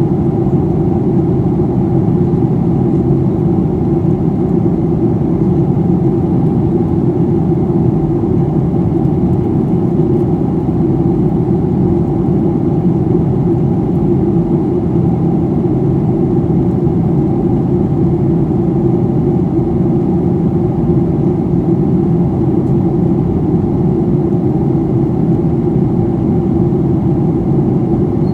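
Steady in-flight cabin noise of a Boeing 737-800: the drone of its CFM56 turbofan engines and the rush of air past the fuselage, heard from inside the cabin.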